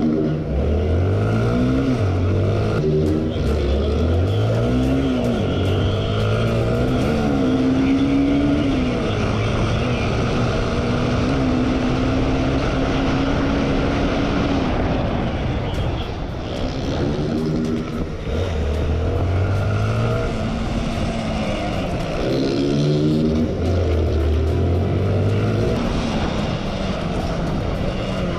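Motorcycle engine accelerating hard through the gears, its pitch climbing and dropping back again and again at each shift, holding a steady high pitch for several seconds in the middle.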